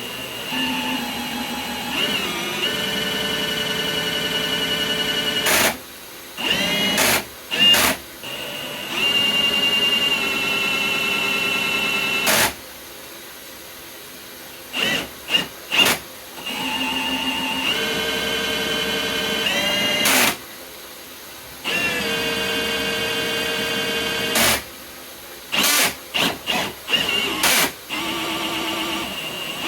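Cordless Milwaukee M18 Fuel hammer drill spinning a Flexshaft drain-cleaning cable in a sewer line. It runs in several long pulls of a few seconds each, with short trigger blips between them. Its motor whine steps up and down in pitch as the speed changes and cuts off sharply at each release.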